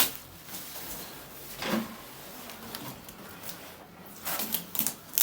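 Scattered knocks and scrapes of hands handling a copier and its packing during unboxing: a short knock at the start, another a little under two seconds in, and a cluster of knocks near the end.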